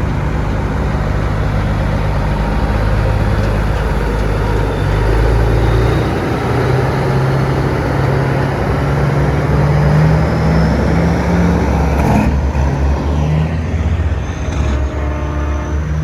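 Semi-truck diesel engines running as big rigs roll past one after another. The low engine drone shifts in pitch as each truck goes by, and there is a sharp click about twelve seconds in.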